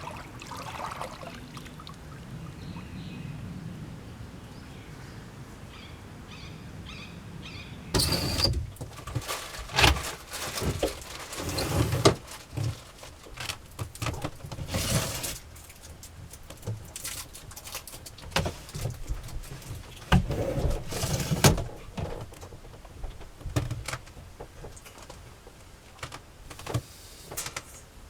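Faint steady background hum with a few faint high chirps, then from about eight seconds in a long run of irregular knocks and clatter.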